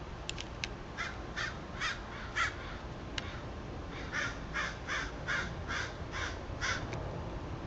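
A crow cawing: four caws, then after a short pause a run of about eight more in quick succession, with a few sharp clicks in between.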